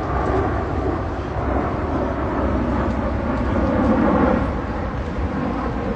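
Steady rumble of wind buffeting the microphone in a snowstorm.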